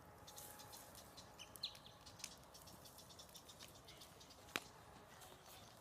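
Faint crackling of a large wood bonfire: scattered light clicks with one sharper pop about four and a half seconds in. A bird chirps faintly a couple of times.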